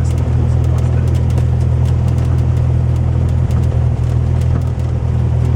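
Cessna 172's piston engine and propeller droning steadily, with a deep, unchanging hum.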